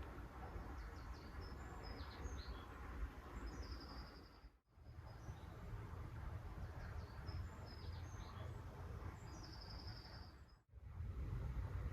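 A small songbird singing a short high phrase that ends in a fast trill, twice, over a steady low rumble. The sound drops out briefly twice.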